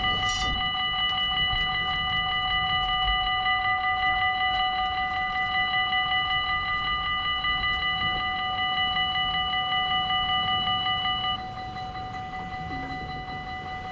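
Dutch level-crossing bells ringing with a rapid, steady, multi-tone clang. About eleven seconds in, the ringing gets quieter and some of its tones drop out.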